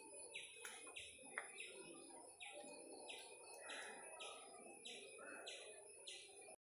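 A bird calling faintly, repeating the same short chirp over and over at a steady pace of about one and a half calls a second; all sound cuts off abruptly shortly before the end.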